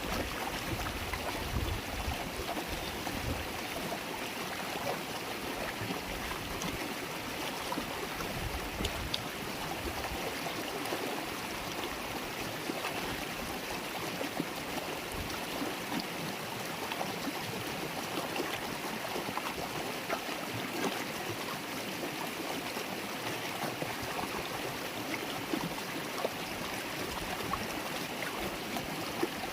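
River water flowing and babbling steadily, with some low rumbling in roughly the first ten seconds.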